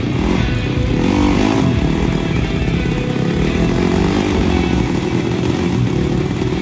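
Drag-built Honda Wave motorcycle engine with a dual exhaust, running loud and revving; the pitch rises and falls once between one and two seconds in.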